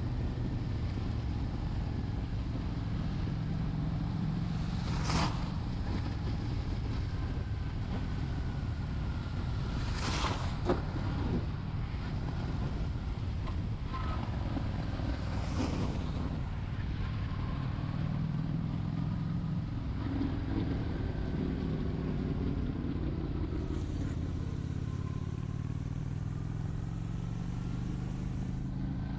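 Honda Shadow 750 V-twin engine running steadily under way, with road and wind noise. Three brief sharp noises come about 5, 10 and 16 seconds in.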